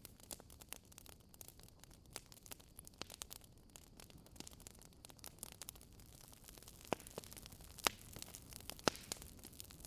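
Wood fire crackling in a fireplace: a soft steady hiss with frequent small pops and a few sharper snaps in the second half.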